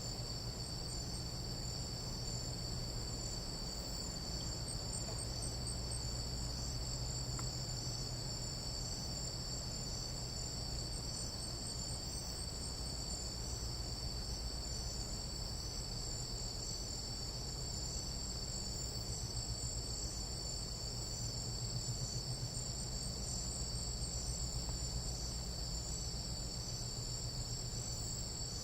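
Chorus of tropical night insects calling continuously: several overlapping high-pitched steady trills, one with a rapid pulsing, over a steady low hum.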